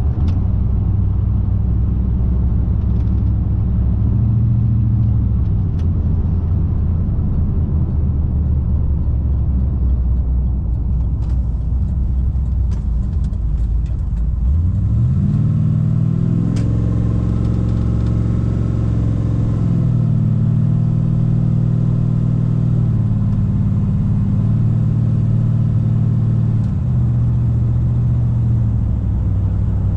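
A 410 cubic inch Magnum stroker V8 in a Dodge Ram pickup with a new exhaust, heard from inside the cab while driving with the windows up. It drones steadily, then about halfway through the pitch rises sharply as the engine is pushed harder, and it settles into a steady cruise with a few small changes in pitch.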